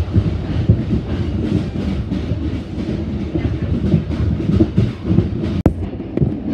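Inside a moving passenger coach of a Vietnamese Reunification Express train: a steady low rumble with irregular clatter and clacking from the wheels and carriage. A sharp click with a momentary break comes about five and a half seconds in.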